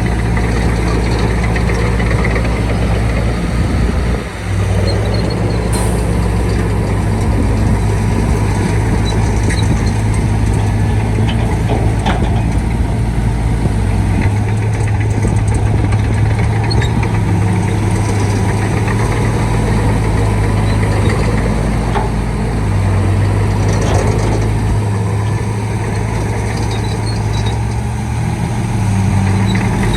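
Shantui D95 bulldozer's diesel engine running steadily, with a brief drop in level about four seconds in.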